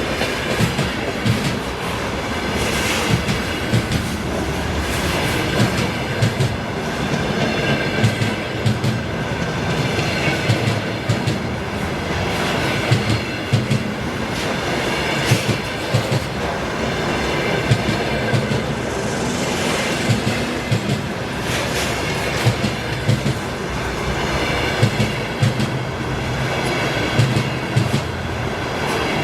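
Freight train wagons rolling past, wheels clattering over rail joints in a regular repeating rhythm, with a faint high wheel squeal at times.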